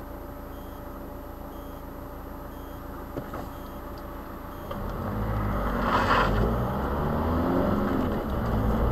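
Car engine heard from inside the cabin, idling steadily while stopped, then pulling away about halfway through and accelerating, getting louder with its pitch climbing. A brief hiss cuts in about six seconds in.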